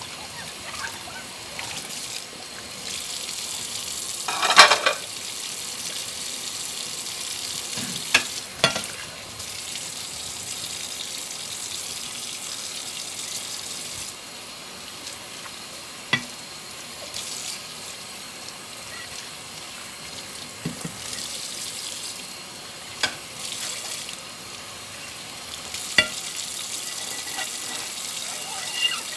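Dishes being washed by hand at a kitchen sink: a tap runs steadily while plates and utensils knock and clink now and then, about seven times, the loudest clatter about four and a half seconds in.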